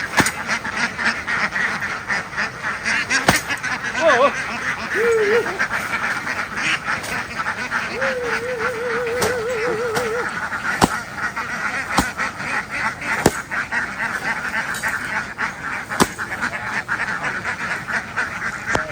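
A large flock of domestic ducks quacking all at once, a dense, unbroken chorus. A single warbling call stands out for about two seconds around eight seconds in, and a few sharp knocks sound through it.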